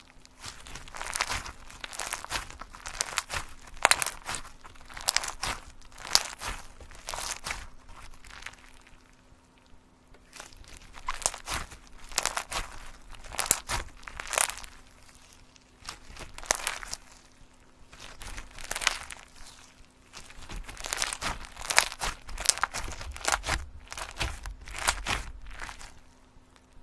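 Repeated crinkling and crackling handling sounds, in clusters that come and go every second or two, over a faint steady hum.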